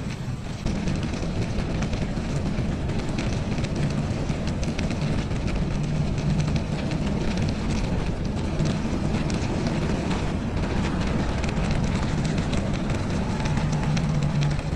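Bicycle ride on a snowy trail: a steady rush of wind on the microphone with dense crackling tyre noise and a low hum underneath.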